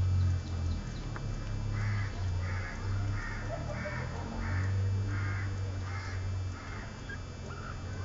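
A bird giving a series of about eight harsh calls, evenly spaced at under a second apart, over a steady low rumble.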